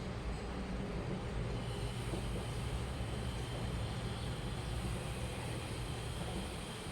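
Washing machine running with a steady low hum and rumble, joined by a faint high whine from about two seconds in.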